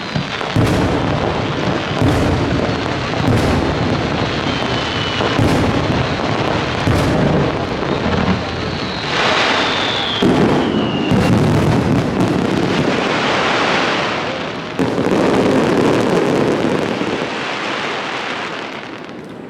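Aerial fireworks shells bursting in a rapid barrage, bang after bang with crackling and rumbling echoes running together. A couple of whistles glide down in pitch among the bursts, and the barrage dies down near the end.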